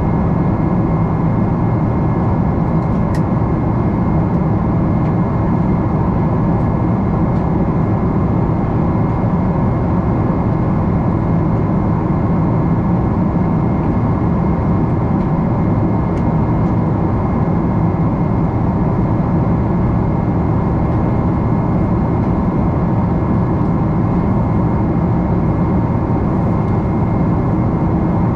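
Steady cabin noise inside a Boeing 777-300 airliner in flight: a constant rushing drone of the jet engines and airflow, with a couple of faint steady whining tones above it.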